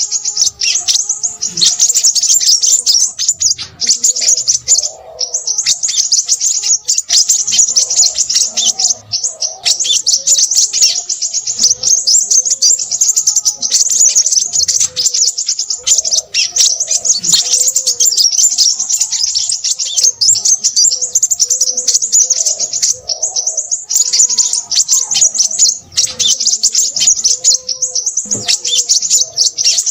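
Crimson sunbird singing: a dense, rapid stream of high-pitched chirps and trills, almost without pause, with a lower wavering call underneath.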